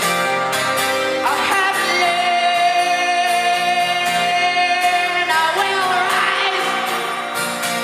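A live band performing, with a female lead vocalist sliding up into a long held note about a second in, then swooping upward again near the six-second mark.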